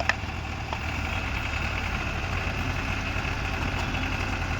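New Holland 45 hp tractor's diesel engine running steadily, with a sharp click right at the start and a fainter one just under a second in.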